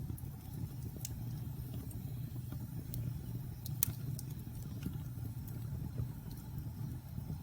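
Logs burning in a fireplace: a steady low rumble of the fire with scattered sharp crackles and pops, the loudest pop about four seconds in.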